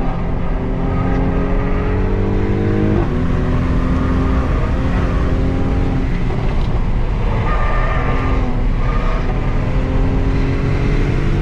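Mercedes-Benz C-Class engine pulling hard under acceleration, heard from inside the cabin. Its pitch climbs, drops sharply at an upshift about three seconds in, and climbs again. Midway the engine note eases off briefly, then picks up and rises once more.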